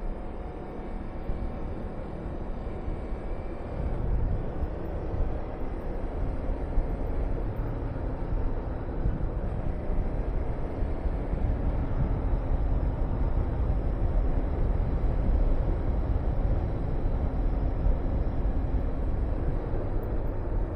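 Honda VTR250's V-twin engine running while riding, mixed with a heavy rush of wind on the microphone. The low rumble grows louder about four seconds in.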